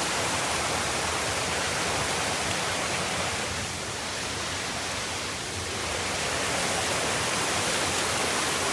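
Waterfall rushing: a steady, loud wash of falling water, easing off a little for a moment midway.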